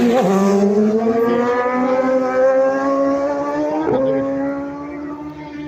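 Superbike at full race pace passing close by, then pulling away, its engine note climbing steadily. There is one quick upshift about four seconds in, and the sound fades near the end.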